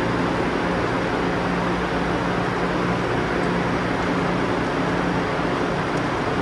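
Steady hum and rush of a stopped electric high-speed train standing at the platform, with a low drone holding one pitch.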